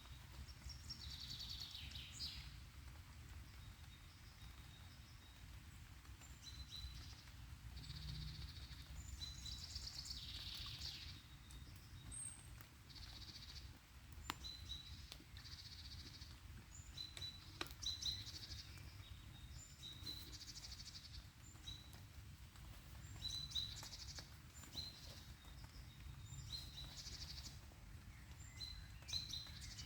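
Small songbirds chirping and singing in short repeated phrases over a low steady rumble, with a few sharp clicks about halfway through.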